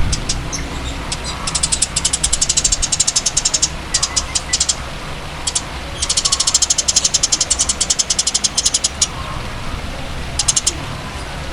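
A songbird's rapid, dry clicking trills, in several bursts, the longest about three seconds, over a steady low hum.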